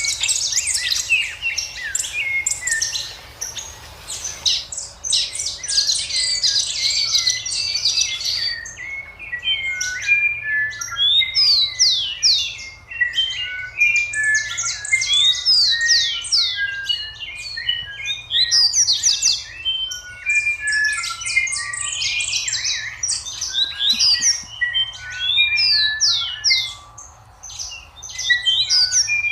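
A flock of young bantam (garnizé) chickens peeping: a dense, continuous chorus of short, high, mostly falling peeps.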